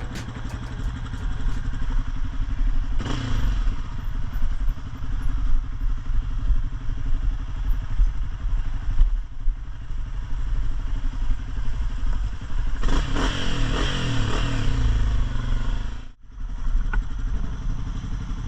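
Dirt bike engine running under load off-road, surging about three seconds in and again around thirteen seconds. The sound drops out for a moment near the end.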